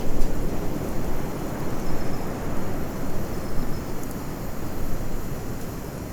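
Bonfire burning: a steady low rush of flames with a few faint crackles.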